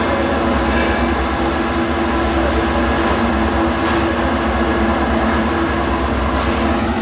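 A steady machine drone with a low rumble and a steady hum.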